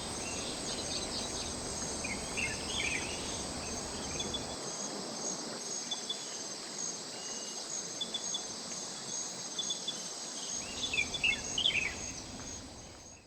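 Insects trilling steadily in a high, pulsing chorus over the even rush of a mountain stream, with a bird chirping briefly a few times. The sound fades out at the end.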